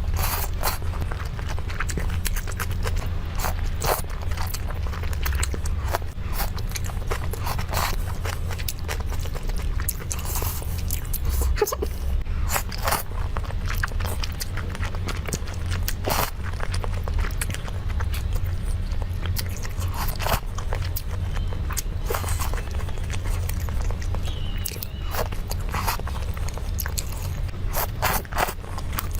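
Close-miked chewing and biting of food: irregular short crunchy clicks, some in quick clusters, over a steady low hum.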